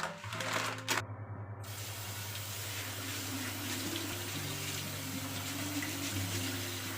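Water running from a tap into a sink, a steady rush after a brief unsteady start.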